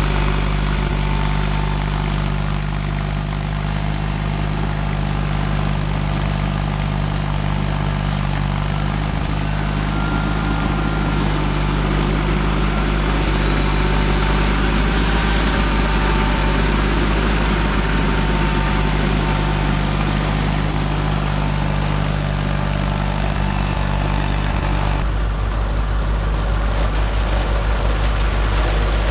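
Tractor engine running steadily under load while snow-blowing. Its sound shifts near the end and takes on a rapid pulsing.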